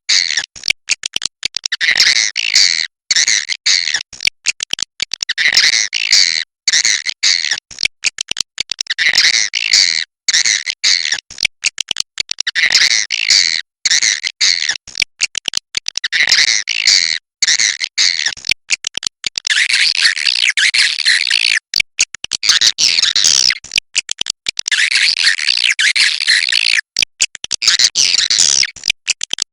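Swiftlets twittering and chirping in a loud, repeating recording, chopped by many abrupt short gaps; from about two-thirds of the way in the twittering becomes denser and more continuous.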